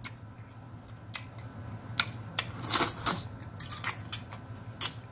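Close-miked eating sounds: wet chewing and lip smacks from a mouthful of food, with a few sharp clicks of a fork on a plate scattered through.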